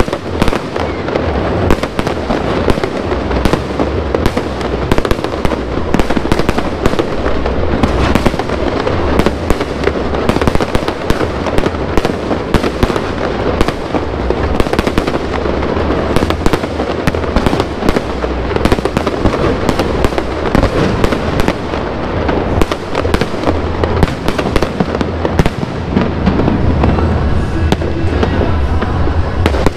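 Aerial fireworks going off in a rapid, continuous barrage: dense crackling with many sharp reports every second over deep booming bursts.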